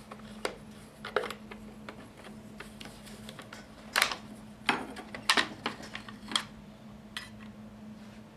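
Scattered clicks and knocks of a wrench and the plastic top cover being handled as the cover comes off a Husqvarna 455 Rancher chainsaw, about seven separate taps, the loudest about four and five seconds in, over a faint steady hum.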